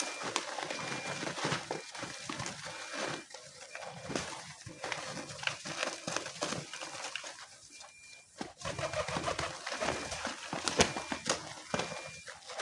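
Homing pigeons cooing while they feed, over an irregular patter of pecking clicks and scuffling as the flock scrambles for grain.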